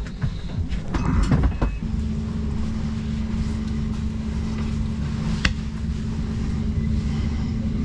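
Passenger train heard from inside the carriage: a few knocks and clicks, then a steady low rumble with a steady electric motor hum setting in about two seconds in, and one sharp click near the middle.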